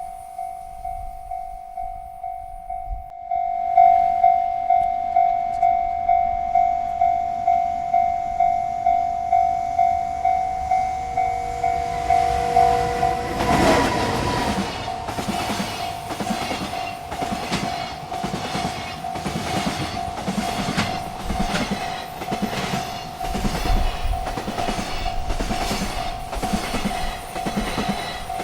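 Railroad crossing bell ringing steadily, about two strokes a second, louder from a few seconds in. About halfway through a train horn sounds briefly. A freight train then passes with a rhythmic clickety-clack of its wagon wheels over the rail joints while the bell keeps ringing.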